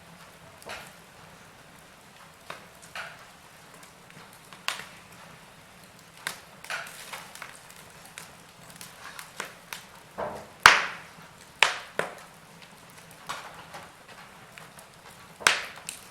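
Wood fire crackling: burning logs giving off irregular sharp pops and snaps over a faint steady hiss, with a cluster of louder pops a little past the middle.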